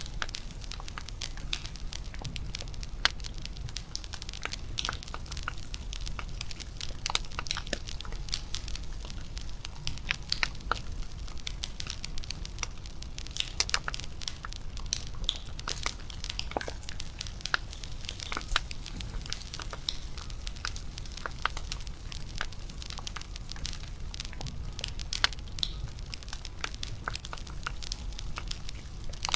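Wood bonfire crackling: irregular sharp pops and snaps, several a second, over a low steady rumble.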